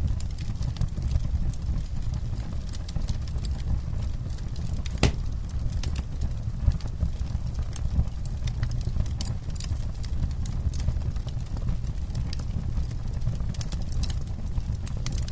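Wood campfire crackling: a steady run of small sharp pops and snaps over a low rumble, with one louder pop about five seconds in.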